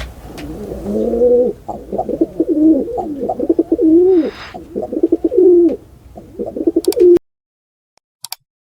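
Pigeon cooing: a run of low, wavering coos that bend up and down in pitch, cutting off abruptly near the end.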